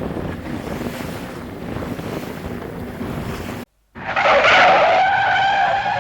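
Wind and water noise on an open boat's microphone. It cuts off abruptly about two-thirds of the way in, and after a brief silence a louder sustained sound with several steady tones takes over.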